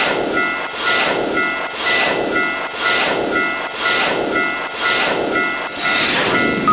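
Railroad crossing warning bells ringing in a fast, steady two-tone pattern, over the rushing noise of a passing train that swells and fades about once a second.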